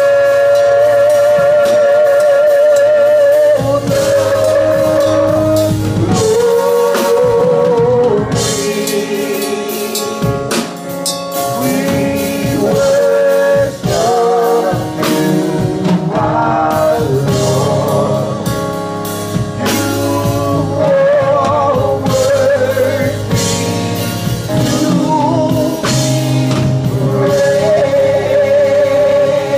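Live gospel praise singing with a band: a lead voice holds long notes with a wide vibrato over drums.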